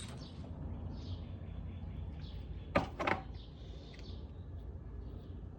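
Handling noises from a cut-open plastic fridge water filter cartridge, with two sharp clicks close together about three seconds in, over a low steady hum.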